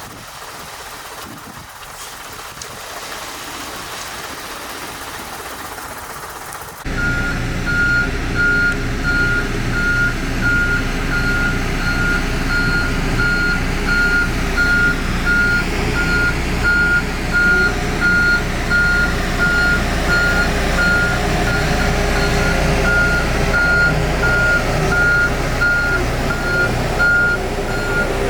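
A steady hiss, then about seven seconds in a construction vehicle's engine starts running with its reversing alarm beeping steadily and evenly on one high tone.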